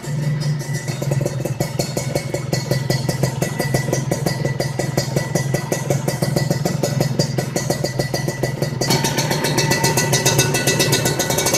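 Kawasaki Ninja 150's single-cylinder two-stroke engine running through an aftermarket racing exhaust, a steady rapid stream of exhaust pulses. About three-quarters of the way in the sound suddenly turns sharper and louder.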